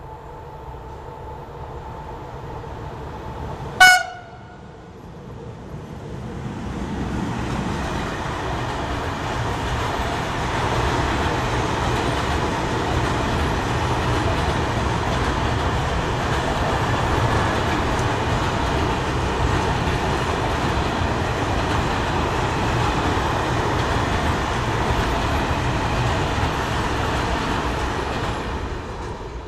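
Freight train of open wagons passing. The locomotive gives one short horn toot about four seconds in, then the long, steady noise of the wagons rolling by, which falls away near the end as the train clears.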